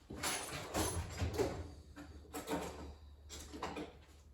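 Hand tools being rummaged through and handled, with irregular light clatters and scrapes, as a pair of pliers is picked up.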